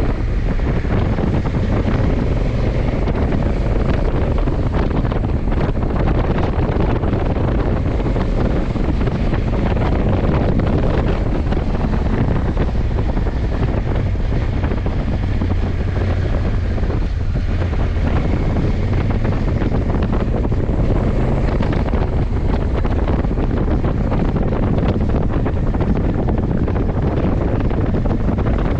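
Heavy wind noise on the microphone at road speed while riding a 2020 Honda CRF1100 Africa Twin, over the steady running of its parallel-twin engine.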